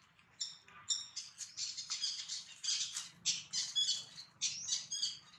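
Birds chirping: a rapid, busy series of short, high calls.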